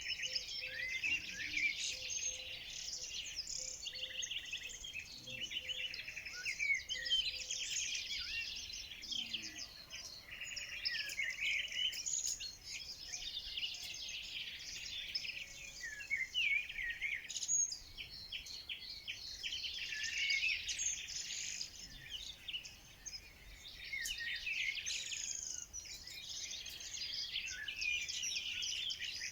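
Many songbirds singing and chirping at once, a dense, continuous chorus of overlapping high trills and quick whistled notes.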